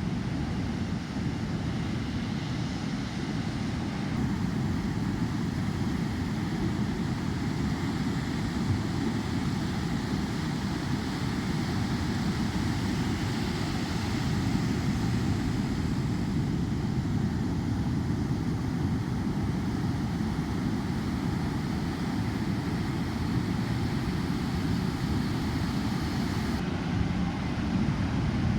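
Steady low rumble of ocean surf, with wind buffeting the microphone.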